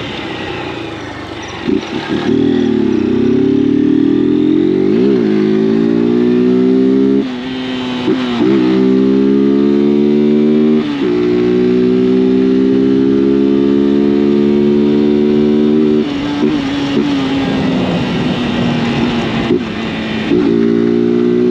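Honda CG 160 Fan's single-cylinder four-stroke engine and exhaust under way, pulling up through the gears: the pitch climbs and drops sharply at each of several shifts, then holds steady at cruise for a few seconds. Near the end it eases off, then pulls again.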